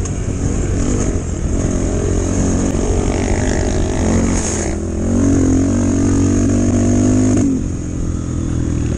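Chinese enduro motorcycle engine running under throttle. About five seconds in it revs up and holds high for about two seconds, then eases off suddenly.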